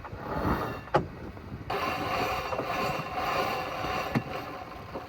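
Mainsheet tackle working as the sheet is hauled in before a jibe: rope running through the blocks for a couple of seconds, with sharp knocks about a second in and near the end, over wind and sea noise.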